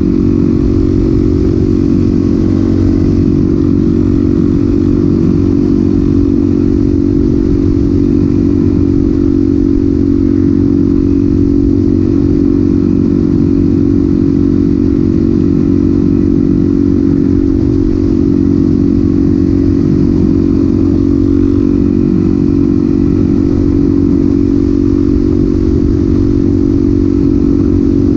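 Suzuki DRZ400SM's single-cylinder engine with a Yoshimura exhaust, running loud and steady at a constant speed, with no change in revs.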